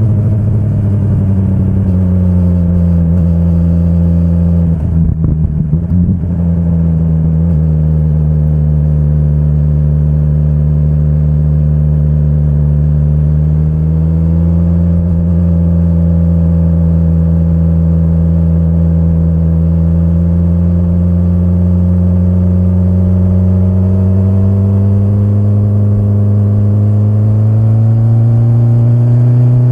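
2025 BMW S1000RR's inline-four engine running at a steady mid-range speed under way. There is a short rough patch about five seconds in, and the revs climb slowly over the last few seconds.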